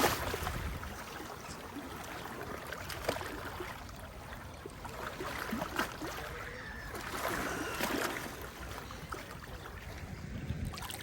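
Sea water washing and sloshing, with waves surging in every few seconds.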